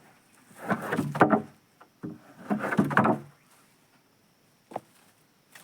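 Two drawn-out scraping or creaking sounds, each about a second long and the second following close after the first, then a short single knock near the end.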